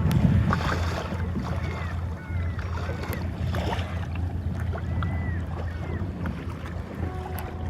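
Kayak paddling: the paddle blades dip and splash, and water drips off them with small plinking sounds. Wind rumbles steadily on the microphone.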